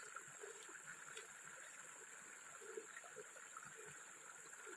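Faint running water of a stream, a low even wash with small scattered gurgles.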